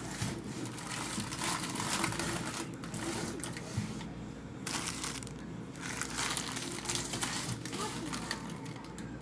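Food packaging crinkling and rustling as it is handled, with light knocks as items are set down.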